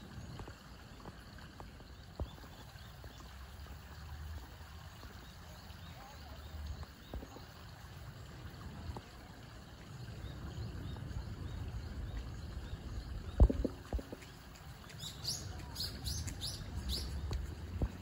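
Low rumble throughout with a single sharp knock about three-quarters of the way in, followed near the end by a quick run of about seven short, high bird chirps.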